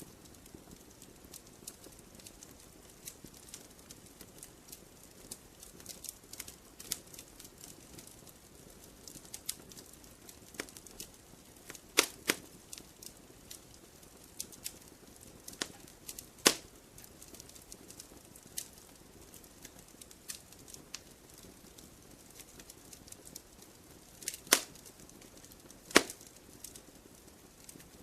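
Wood campfire burning, a steady soft crackle with frequent small snaps and a handful of louder sharp pops scattered through.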